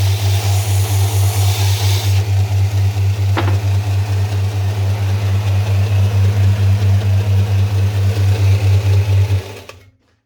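Electric motor of a Kraton WMS-350-150 bench sanding machine running with a loud, pulsing hum, with a hiss in the first two seconds and a single short tick a little later. Near the end it is switched off and winds down to quiet within about half a second.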